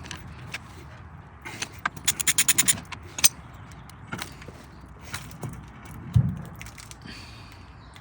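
Hand tools and loose metal parts working on a Porsche 356's rear suspension: scattered metallic clicks and clinks, with a quick run of about ten rapid clicks about two seconds in and a heavier thump about six seconds in.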